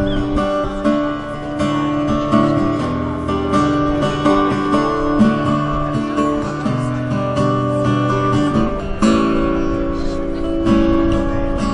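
Acoustic guitar strumming chords, the instrumental introduction to a song, with the chords changing every second or two.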